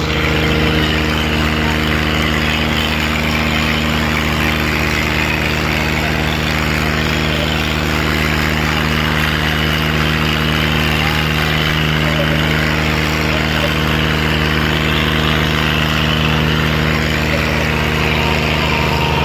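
Diesel tractor engine running steadily at an even, unchanging pitch.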